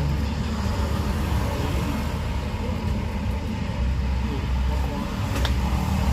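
Steady low rumble of road traffic going past, with one sharp click about five seconds in.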